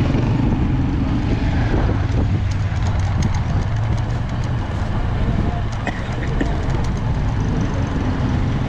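Motorcycle engine running steadily while riding, a constant low drone with road and traffic noise over it.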